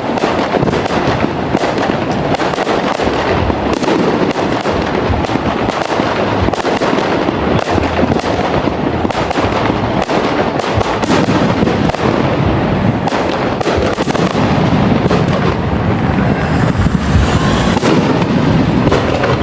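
Fireworks display going off without a break: many sharp bangs in quick succession over a steady rumble, with a brief hiss near the end.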